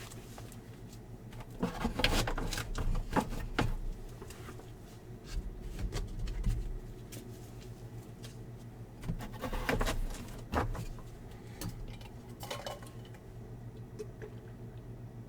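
Trading card boxes and packs being handled on a table: scattered taps, clicks and rustles that come in several short flurries.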